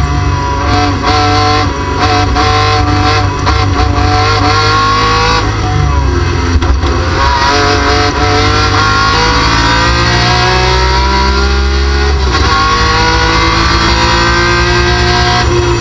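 BMW M3 race car engine at high revs, heard from inside the cockpit. It eases through a corner, then revs climb under full throttle, drop sharply at an upshift about twelve seconds in, and climb again.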